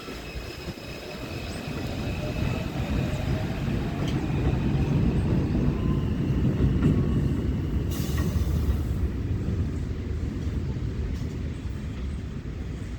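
R142-family subway train running on the Jerome Avenue line's elevated track. A deep wheel-and-rail rumble builds to its loudest about seven seconds in and then slowly eases off, with a faint rising motor whine in the first few seconds.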